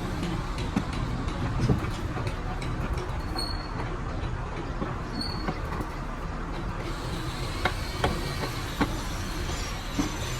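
Steady mechanical rumble with scattered light clicks and taps.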